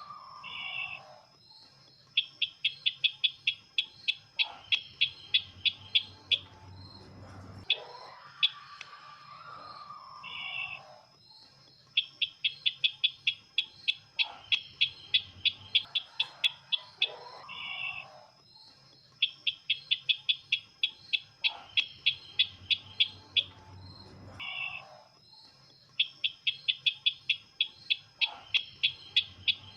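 Bird call of the sisintar ladang, played as a looped lure recording for bird trapping: rapid runs of sharp high chips, about four or five a second for some four seconds, repeating about every seven seconds, with lower falling calls between the runs.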